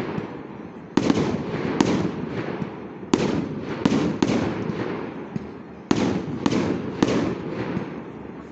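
Aerial fireworks shells bursting overhead: about eight sharp bangs in clusters of two or three, each trailing off into a rolling rumble.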